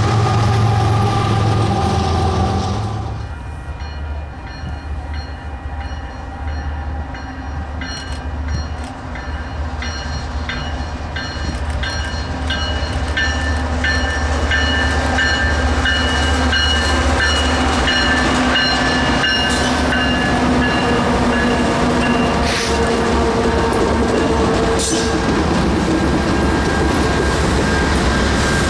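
Diesel freight train horn sounding for about the first three seconds and cutting off. A passing train follows, with a low steady engine rumble, thin steady squealing from the wheels and scattered clicks of wheels over the rail, getting louder toward the end.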